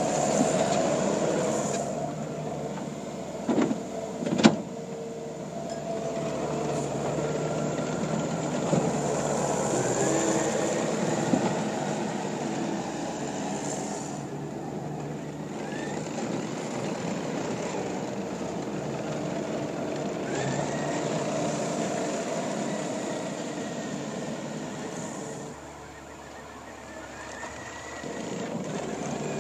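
Takeuchi TL150 compact track loader's diesel engine running and changing speed as the machine is worked, with sharp knocks about three and a half and four and a half seconds in. The engine drops quieter for a couple of seconds near the end.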